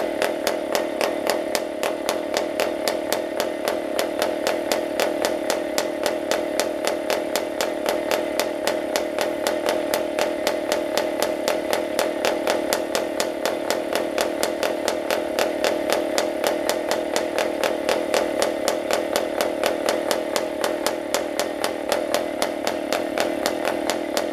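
Small model engine running steadily at a constant speed, with an even pulsing about four to five times a second.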